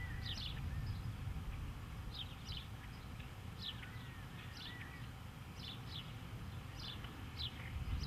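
Small birds calling: short, high chirps, mostly in quick pairs, repeated every second or so, with a few thin whistled notes, over a steady low rumble.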